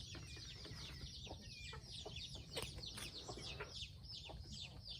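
A flock of chickens calling: a dense, continuous chorus of short, high, downward-sliding chirps, with a few sharp clicks mixed in.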